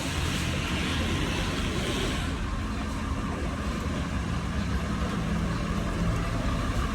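Tow truck engine running steadily, a continuous low rumble with an even hiss of road or air noise over it.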